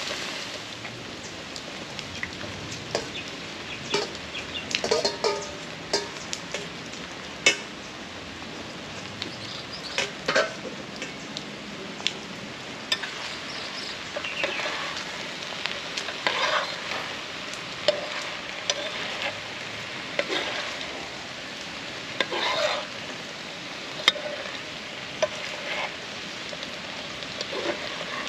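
Ackee and saltfish frying in a pan over a charcoal fire, sizzling steadily, while a metal spoon stirs it, scraping and clicking against the pan now and again.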